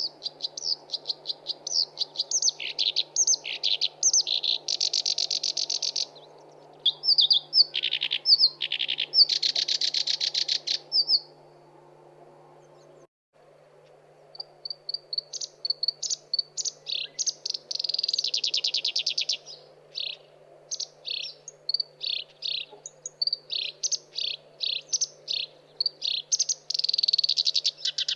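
Black-browed reed warbler singing: fast runs of short, harsh chattering and buzzy notes, with a pause of a few seconds about halfway through. A faint steady hum runs underneath.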